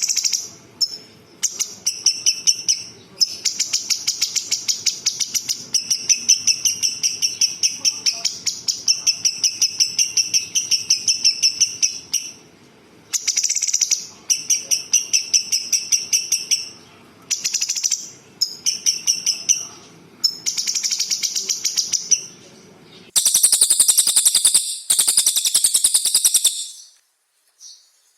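Recorded songbird song in rapid trilled phrases separated by short pauses. About 23 seconds in, a louder, higher, harsher trill takes over, then breaks off briefly near the end.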